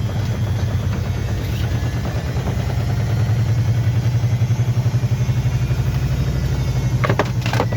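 Washing machine drum spinning at speed: a steady low hum with a rapid, even pulse.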